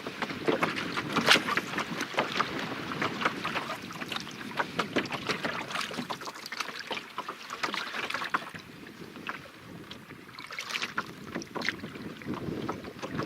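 Water splashing and lapping against a canoe, a dense run of small irregular splashes.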